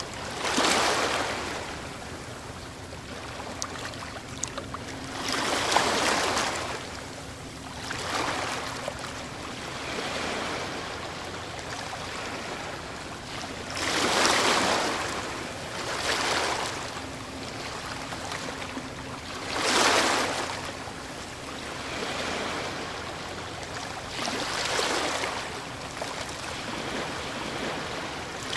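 Ocean waves breaking on a shore. They surge and wash back every few seconds, with the biggest breakers about halfway through and again about two-thirds of the way in, and a steady hiss of surf between them.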